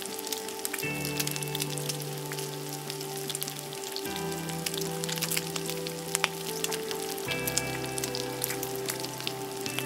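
Slices of Spam sizzling and crackling in a lightly oiled frying pan, with background music of held chords that change every few seconds.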